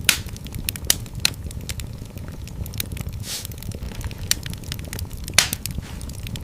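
Wood fire burning in a fireplace, crackling with a dense stream of small snaps and a few louder pops: one right at the start, two about a second in and one a little over five seconds in. A short hiss comes about halfway, over a steady low rumble.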